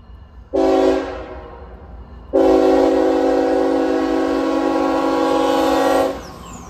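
Diesel locomotive air horn blowing one short blast, then a long blast of about four seconds, a steady multi-note chord. A low rumble of the train runs beneath it.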